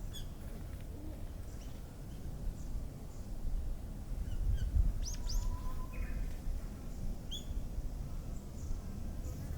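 Wild birds calling in spring countryside: scattered short, high chirps and quick pitch sweeps. The busiest cluster comes about five seconds in, with a brief steady whistle. A low steady rumble runs underneath.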